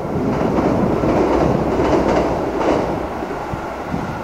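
Hokuriku Main Line electric train running across a river bridge: a steady rumble of wheels on rails that grows to its loudest about halfway through, then fades.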